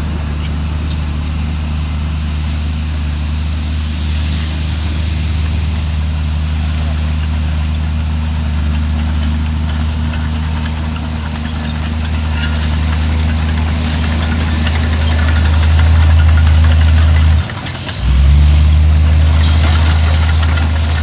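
Heavy diesel engine of earthmoving machinery running steadily with a deep, even drone. It grows louder past the middle, drops out briefly near the end, then comes straight back.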